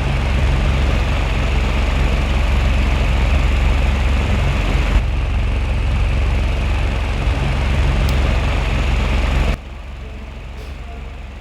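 Homemade mini ceiling fan's old electric fan motor running, a steady hum with the rush of its cardboard blades. About nine and a half seconds in the sound drops suddenly to a quieter hum.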